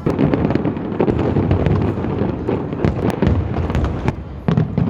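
Fireworks going off in a loud, dense barrage: many sharp cracks and pops in quick succession over a continuous booming rumble.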